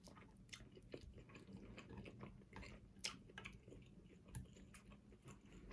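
Faint chewing of shrimp close to the microphone, with scattered soft mouth clicks and smacks.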